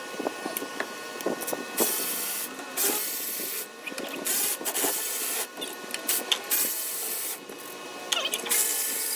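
Several bursts of hissing, each about half a second to a second long, among light metal clicks and clinks of tools during engine teardown work.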